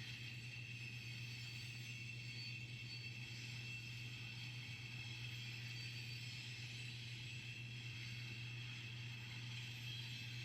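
Freight train cars rolling past steadily: an even low hum with faint steady high-pitched tones above it and no sudden changes.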